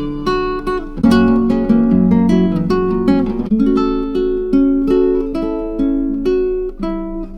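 Background music of plucked acoustic guitar picking a steady run of ringing notes and chords.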